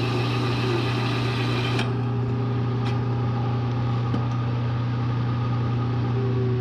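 Bridgeport milling machine running with a steady hum while a hole saw cuts steel. The higher hiss of the cut stops abruptly about two seconds in, leaving the machine's hum and a few light clicks.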